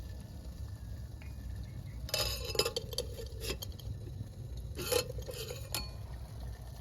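Metal eating or cooking utensils clinking and scraping against a pot or dish in two short bouts of clatter.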